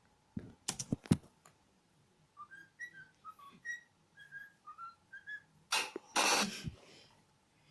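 A bird whistles a short tune: a quick run of about a dozen clear notes that hop up and down in pitch. A few sharp clicks come before it, and a loud burst of rushing noise follows.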